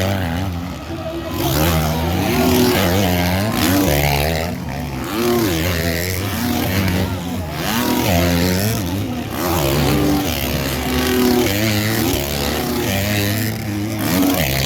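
Several motocross bikes racing, their engines revving up and down over and over, with the pitch climbing and dropping through the gears as they overlap.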